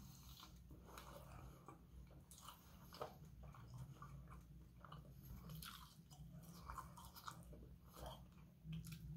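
Faint chewing of sushi: soft, irregular wet mouth clicks and smacks, over a low steady hum.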